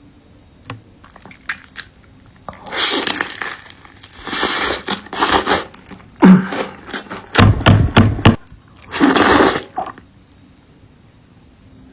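Close-miked wet eating sounds of saucy buldak noodles eaten by hand: slurping and squishing in five or six bursts, with a few low thuds in the middle.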